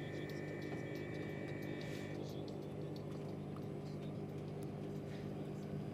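Steady humming drone inside a moving Tilt Train carriage, with a thin high two-tone whine that stops about two seconds in.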